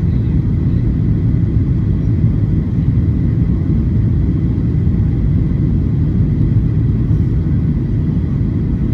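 Boeing 737-800 cabin noise: a steady low rumble of the engines and airflow heard inside the cabin, with a faint steady high tone above it.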